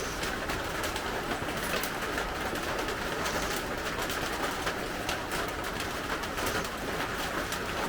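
Steady hiss of heavy rain with scattered sharp ticks of drops.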